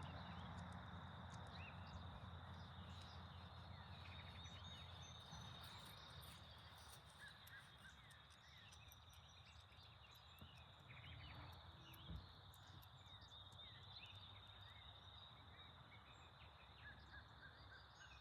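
Faint birdsong: many short chirps and trills from several birds, over a steady high-pitched tone and a low rumble that fades early. A single soft knock about twelve seconds in.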